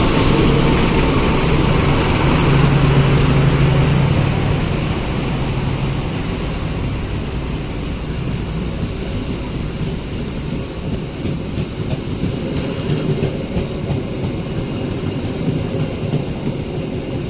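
Diesel locomotive passing: its engine's steady low drone is loudest for the first few seconds, then fades into the rumble of the train's carriages rolling by.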